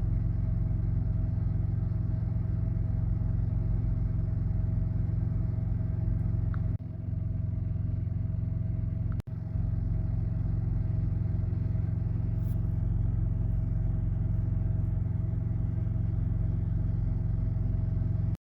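Steady low drone of a semi-truck's engine and road noise heard inside the cab while driving, with a faint steady hum over it, broken by two brief dropouts about seven and nine seconds in.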